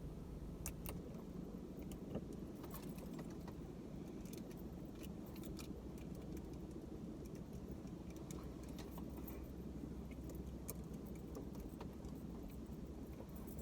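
A car engine idling, heard as a steady low hum inside the cabin, with scattered light clicks and rattles of small plastic accessories being handled and fitted.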